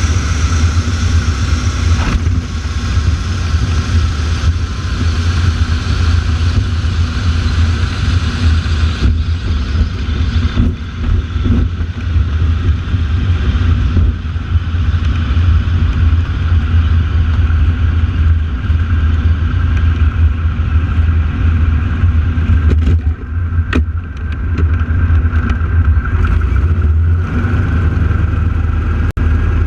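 Radial engines of North American AT-6 Texan aerobatic aircraft droning overhead, with a steady heavy rumble and a held tone that slowly drifts in pitch as the planes manoeuvre. A few short clicks come through about three quarters of the way in.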